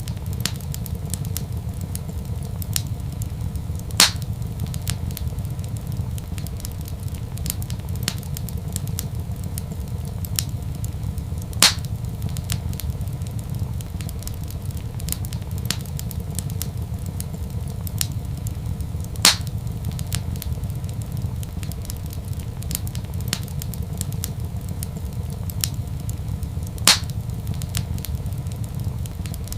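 Wood fire in a fireplace crackling, with many small snaps and four louder pops spaced evenly about seven and a half seconds apart, over a steady low rumble.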